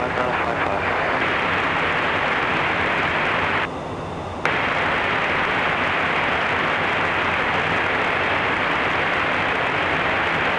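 Aircraft radio hiss heard through the headset while an unanswered call waits for a reply. The hiss is steady and cuts off above the voice band. About four seconds in it drops quieter for under a second, then comes back with a click.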